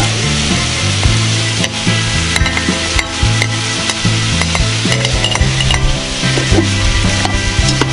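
Goose pieces and onions sizzling as they fry in a large pot, with a metal spoon stirring and clicking against the pot.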